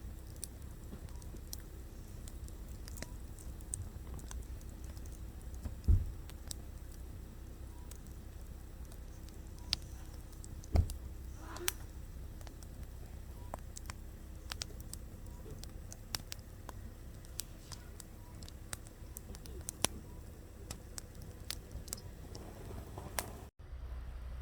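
Firewood burning, with irregular small crackles and pops over a low steady rumble. There are two louder thumps, about six and eleven seconds in. The sound drops out briefly near the end.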